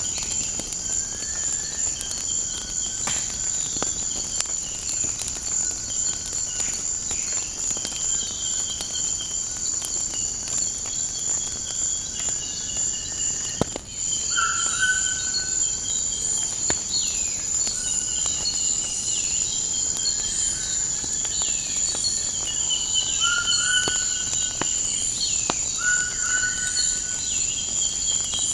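Nature ambience: a steady, high, shrill chorus of crickets, with birds calling over it in short repeated notes that grow more frequent in the second half. Scattered faint crackling clicks come from a fire. Near the middle the level drops for a moment.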